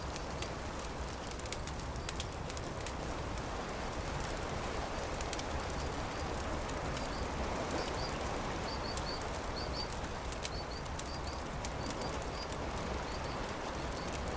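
Campfire crackling with sharp pops over a steady rushing wash of surf. From about halfway through, a small bird chirps repeatedly in short high notes.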